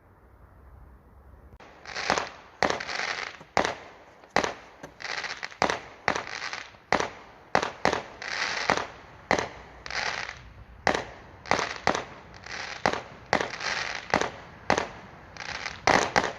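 Fireworks going off in a rapid run of sharp bangs, about two a second, each trailed by a crackling hiss, starting about two seconds in.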